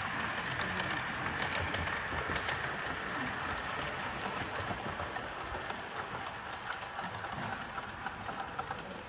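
Model train running along the layout track: a steady whirr with many rapid small clicks, slowly fading.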